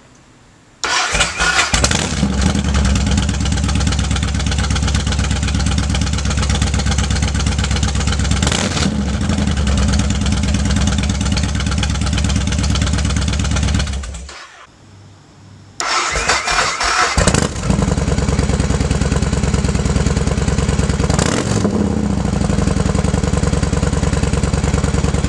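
Yamaha Warrior 1700's V-twin starting up and idling through a Cobra swept exhaust close to the microphone, with a few short throttle blips; it is heard twice: first with the baffles taken out, then, after a short break, starting again with the baffles back in.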